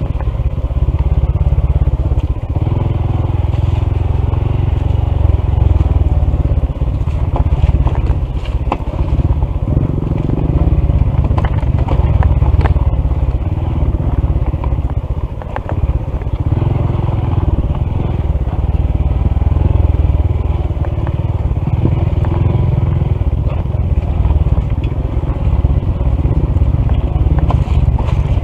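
Honda CT125's small air-cooled single-cylinder engine running steadily while riding a rough dirt trail, its level rising and falling, with scattered clicks and clatter throughout.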